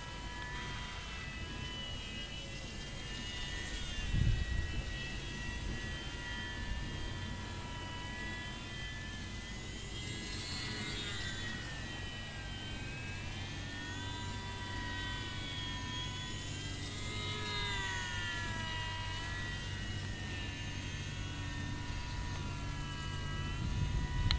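ParkZone UM P-51D Mustang micro RC plane's small electric motor and propeller whining in flight, the pitch rising and falling in slow waves as it circles. A couple of low thumps, about four seconds in and near the end.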